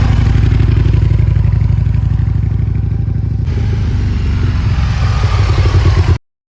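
Aprilia Tuono 1000R's V-twin engine running loud and steady, its note changing about halfway through, then cutting off suddenly near the end.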